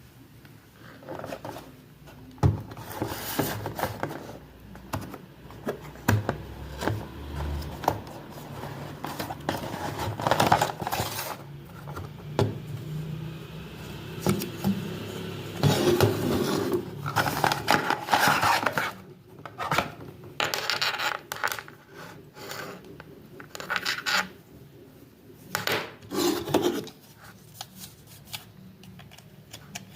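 Irregular rubbing, scraping and clicking of small hard objects being handled, in uneven bursts with short knocks, busiest in the second half.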